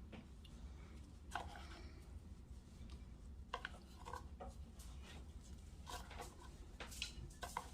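Faint, scattered taps and scrapes of a utensil spreading shredded chicken over spaghetti in a casserole dish, a handful of short clicks a second or so apart over a low steady hum.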